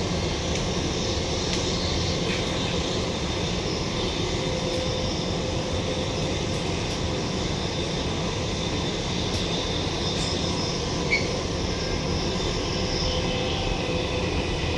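Interior running noise of a Queensland Rail New Generation Rollingstock electric multiple unit: a steady rumble of the wheels on the rails, with faint steady tones higher up.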